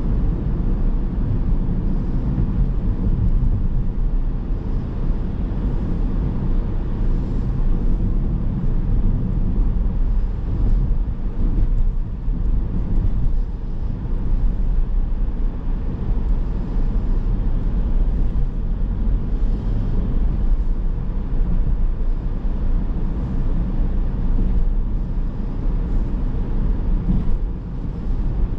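Steady low rumble of a car driving on city streets: road and tyre noise with no speech or music.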